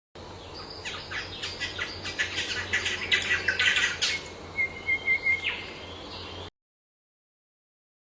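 Birds chirping in a quick run of short, sharp notes, then a brief wavering call, over a steady low hum. The sound cuts off suddenly after about six seconds.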